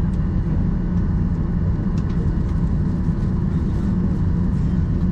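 Steady low rumble of a Boeing 737-800's cabin before takeoff, from the running engines and air conditioning, with a faint click about two seconds in.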